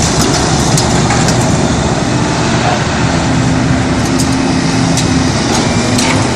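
Eight-cylinder diesel engine of a Liebherr R974C Litronic high-rise material handler running steadily, with a low hum and a few sharp metallic clinks from the scrap being handled.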